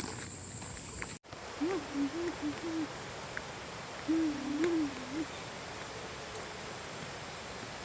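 Owl hooting at night: two short phrases of wavering hoots, a couple of seconds apart. Before them, a high steady drone cuts off abruptly about a second in.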